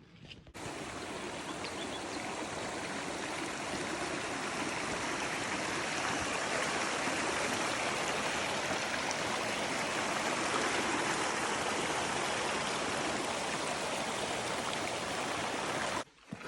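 Mountain stream flowing, a steady rush of water that starts suddenly about half a second in and cuts off suddenly near the end.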